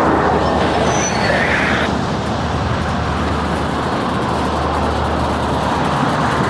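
Freight train rolling past, a steady loud rumble and roar of railcar wheels on the rails.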